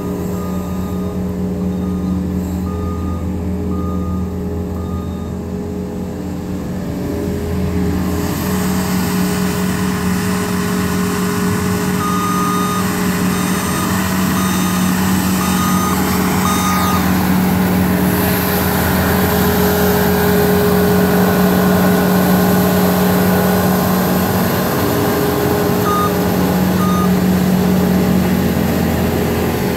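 New Holland L230 skid steer's diesel engine running under load as it works, growing louder and busier about eight seconds in. Its backup alarm beeps in three spells as the loader reverses: early on, again in the middle, and briefly near the end.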